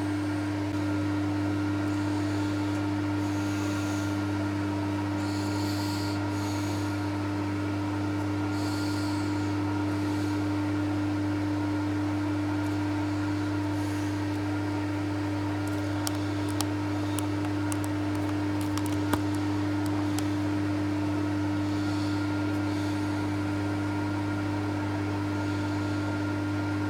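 Steady electric motor hum of a TOS milling machine running, with a few faint clicks about two-thirds of the way through.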